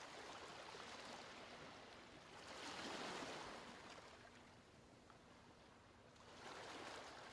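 Faint ocean waves washing in, with two swells of surf hiss, the stronger one about three seconds in and another near the end.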